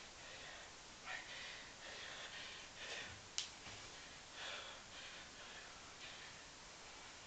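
A man breathing hard in quick, noisy puffs from the exertion of a long set of one-leg squats. One sharp click about three seconds in.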